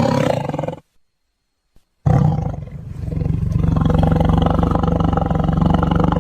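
Tiger roaring: one call ending just under a second in, then after a second of silence a long, low roar of about four seconds that holds a steady pitch through its second half.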